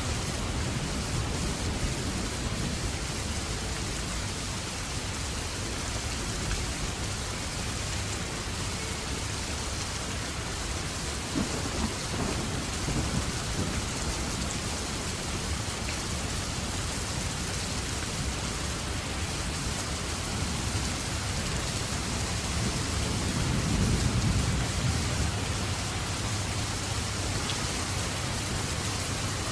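Steady heavy rain, with a low rumble of thunder swelling a few seconds before the end.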